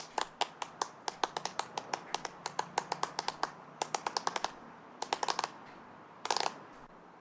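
Rapid, irregular train of sharp clicks or taps, about five a second, thinning out after about four and a half seconds and ending in a short cluster.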